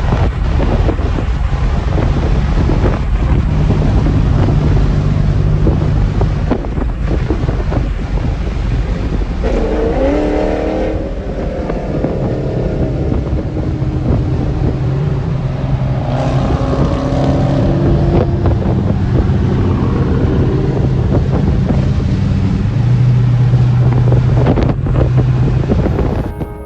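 Loud car engines running and revving, with a steady low drone and a couple of rising revs; the sound cuts off suddenly near the end.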